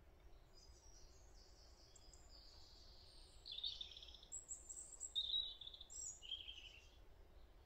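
Small birds chirping faintly: a run of short, high calls, loudest around the middle, over a quiet outdoor background hiss.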